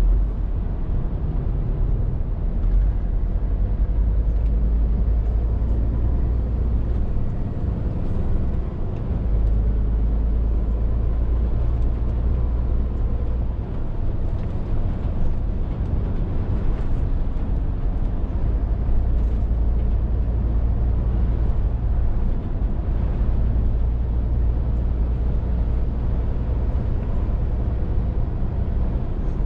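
Scania R450 lorry's 13-litre straight-six diesel engine running under way, a steady deep drone with road noise. The drone eases briefly about eight seconds in and again around fourteen seconds in.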